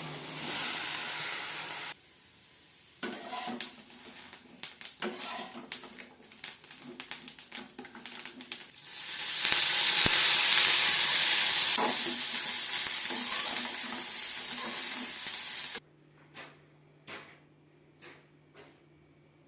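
Kitchen sounds of Thai tea being made, in several cuts: a run of utensil clicks and clinks against cookware, then a loud steady hiss for about six seconds, then a sudden drop to a faint hum with a few light ticks.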